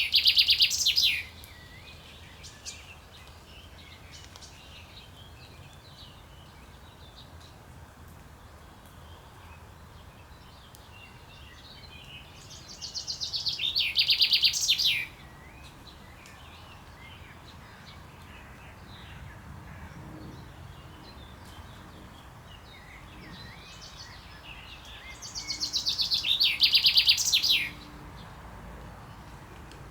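A male common chaffinch singing its breeding-season song. Three phrases come about twelve seconds apart: the first is ending as the sound begins, and each is a fast run of notes that grows louder over about two seconds and then stops sharply. Faint chirps and a low steady background hum fill the gaps.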